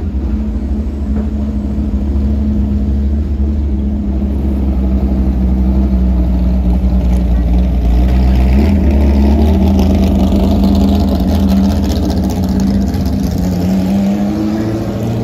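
A car engine running loud and low at steady revs. It grows louder about halfway through and its pitch rises slightly near the end.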